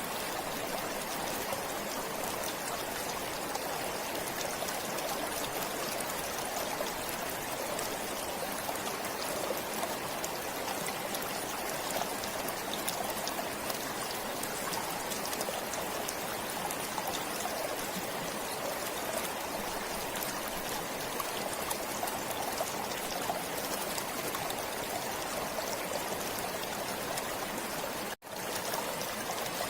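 A forest stream flowing and trickling steadily. It cuts out for an instant near the end.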